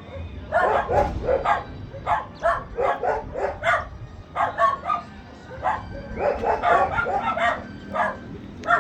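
A dog barking and yipping repeatedly in quick clusters of short calls.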